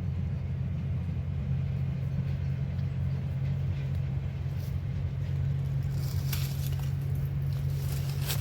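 A steady, low engine-like hum, like a motor running, with a few brief rustles or clicks from about six seconds in.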